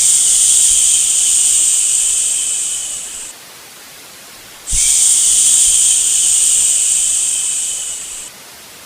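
Long, drawn-out 'shhh' shushing sounds meant to lull a baby to sleep, twice, each lasting about three and a half seconds, starting sharply and tapering off at the end, over a fainter steady hiss between them.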